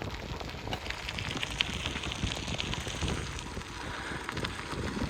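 Bicycle tyres rolling along a trail surface, a steady crackling patter of grit under the wheels over a low rumble.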